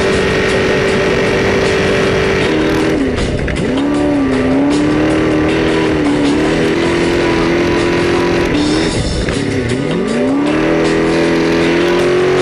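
Desert racing trophy truck's engine running hard at high revs, its pitch dropping and climbing back twice as the throttle is lifted and reapplied: briefly about three seconds in, and more deeply near the end.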